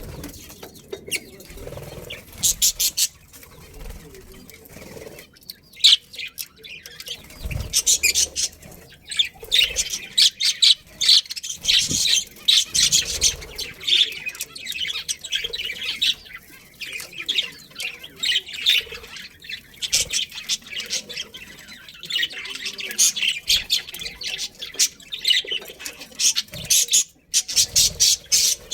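A flock of budgerigars chirping and chattering, a dense run of short high calls that grows busier from about eight seconds in.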